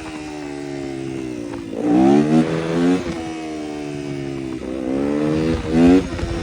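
Yamaha 250 YZF motorcycle engine idling, blipped up in quick revs about two seconds in and again around five to six seconds in, the last blip the loudest, each time falling back to idle.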